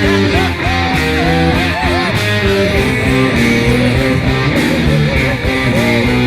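Rock music led by guitar: a full band sound with a melody line wavering in wide vibrato and bends.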